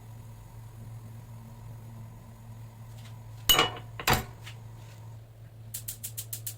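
Two sharp knocks of hard objects, about half a second apart, over a steady low hum. Near the end a fast, even ticking starts.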